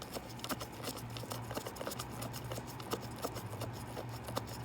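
Small irregular clicks and taps of a tiny screw being fitted and turned with a short screwdriver to secure a mass airflow sensor, over a steady low hum.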